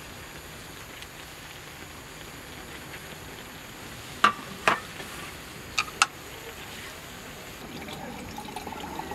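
Steady patter of rain, with four sharp clicks in two pairs about a second apart around the middle.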